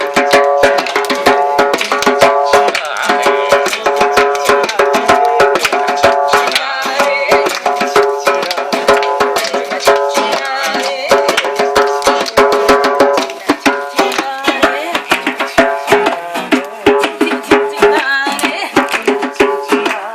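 Acoustic guitar strumming chords with a djembe beating out a busy rhythm: an instrumental passage of a live acoustic song.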